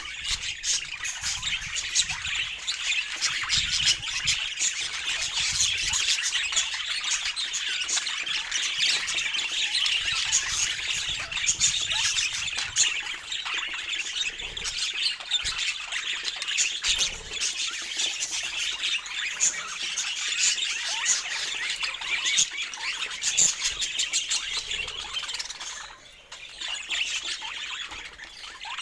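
Budgerigars chattering, chirping and squawking without pause, with a short lull near the end.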